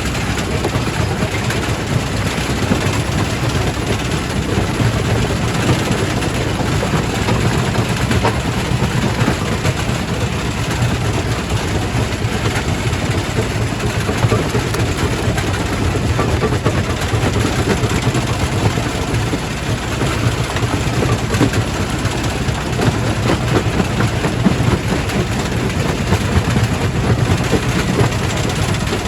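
Quarry primary rock crusher running under load: a steady low machine drone with a constant clatter of rock being broken.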